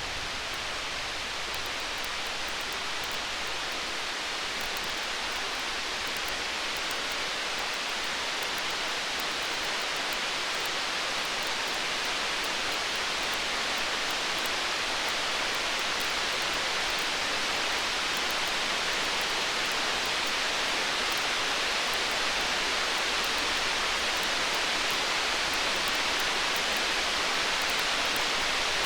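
Storm-and-campfire ambience: a steady, rain-like hiss that swells slightly, with faint small crackles; the tail of a distant thunder rumble dies away at the very start.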